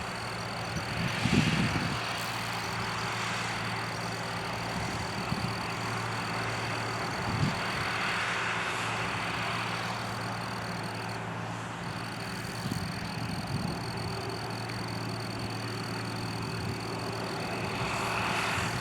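John Deere 8300 tractor's diesel engine running steadily as it pulls a cultivator, with a thin steady high whine above the engine note.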